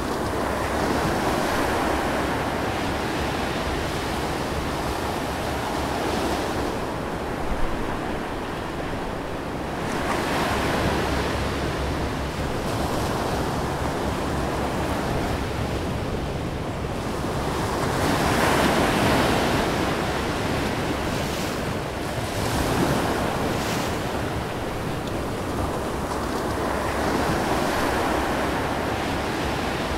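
Wind and waves on open sea water, with wind buffeting the microphone; the rushing noise swells and eases every several seconds. A single brief knock about seven and a half seconds in.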